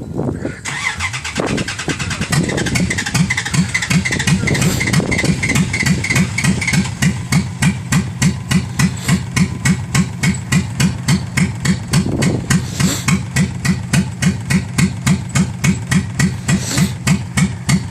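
Cold carbureted Dodge Ram pickup engine being cranked over by its starter in a long, even run of rhythmic pulses, a hard cold start with the engine struggling to catch.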